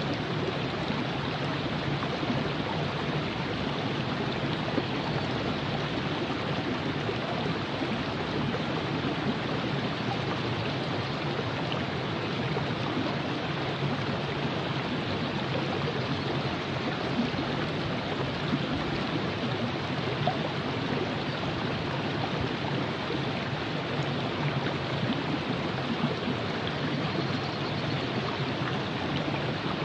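Steady rushing and gurgling of a river flowing over rocks.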